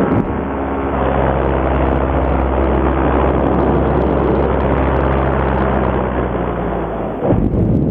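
Fresh Breeze paramotor's two-stroke Simonini engine and propeller running steadily at a constant speed in flight. About seven seconds in the steady engine note breaks off and gives way to a rougher rushing noise.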